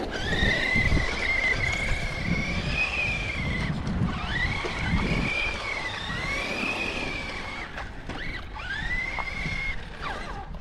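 Electric motor of a radio-controlled truck whining in several throttle bursts, the pitch climbing, holding and dropping again each time, over a rough rumble of tyres on dirt.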